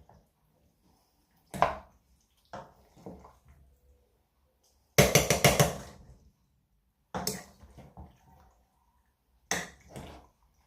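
Kitchenware clattering: a metal utensil knocking against a pan or dish in several separate knocks, with a quick rattle of clinks about five seconds in, the loudest.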